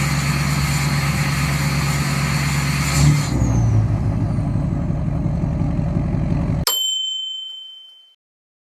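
Straight-piped 6.6 LBZ Duramax diesel idling after a cold start, its note shifting briefly about three seconds in. A little after six and a half seconds the engine sound cuts off abruptly with a click and a bright ding that rings out and fades to silence.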